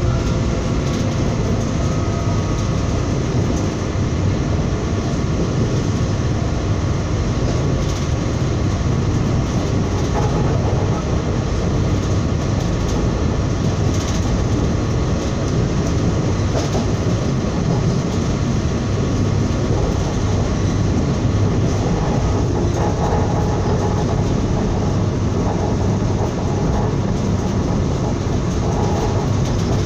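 Passenger train running steadily along the rails, heard from on board: an even, continuous rumble of wheels and carriage.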